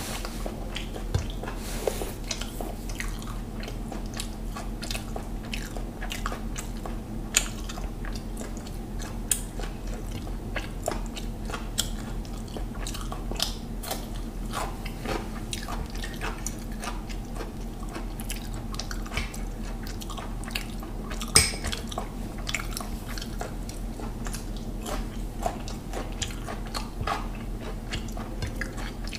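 Close-up chewing and biting of a person eating mutton biryani by hand, with crunches of raw cucumber slices and many irregular sharp mouth clicks, the sharpest about two-thirds of the way through.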